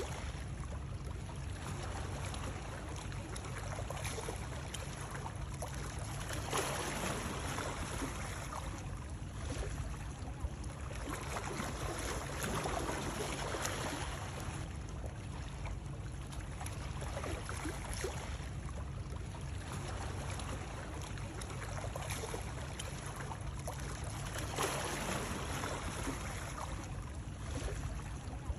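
Continuous rushing water noise, swelling and easing every few seconds over a steady low rumble.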